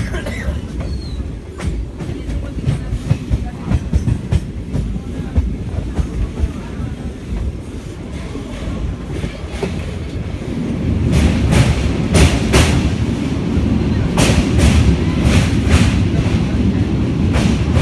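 Express passenger train running at speed, heard from inside a coach: a steady low rumble with wheels clicking over rail joints. About eleven seconds in it grows louder, with a quicker run of sharp clacks.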